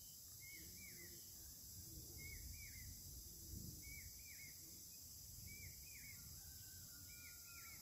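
Quiet outdoor ambience. A bird repeats a short two-note chirp five times, about every second and a half, over a steady high hiss of insects.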